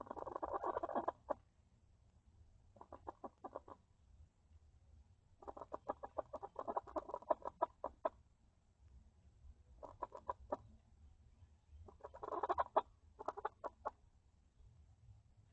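Domestic hens clucking in rapid bursts: about five spells of quick-fire clucks, the longest about a third of the way in, with short pauses between them. The owner hears it as one hen scolding another that is sitting in the nest box to lay.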